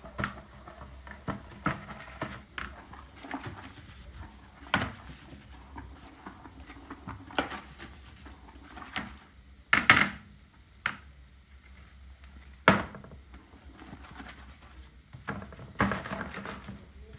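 Household cleaning in a small bathroom: irregular knocks, clatters and brief scrubbing sounds, with two sharp knocks about ten and thirteen seconds in the loudest.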